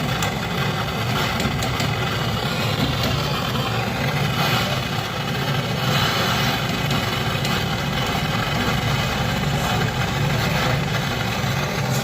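A motor-driven machine running with a loud, steady mechanical drone.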